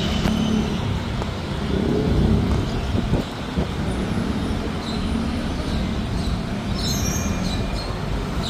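Steady rumble of road traffic on a busy city street, with a few faint, short high-pitched chirps in the second half.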